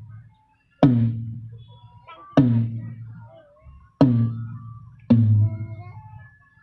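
Single low drum strikes through a PA sound system being sound-checked: four separate hits, each booming and ringing out slowly before the next.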